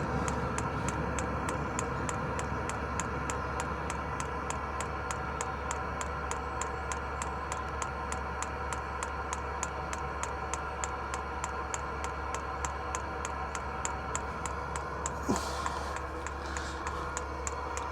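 Diesel heater's fuel dosing pump ticking fast and evenly over the steady hum of the heater's blower fan. The pump is running dry, with no fuel yet drawn through the new line from the van's tank, and the heater is shutting itself off for lack of fuel. A brief rustle near the end.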